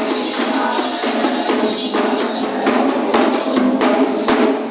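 Candomblé ceremonial percussion music: drums played continuously with jingling percussion over them.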